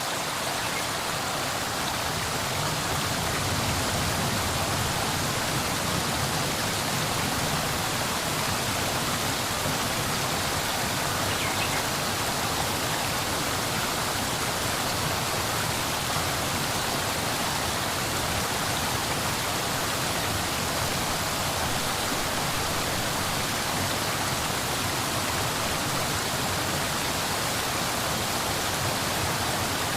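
Steady, unbroken rushing of water, an even hiss with no distinct drops or splashes.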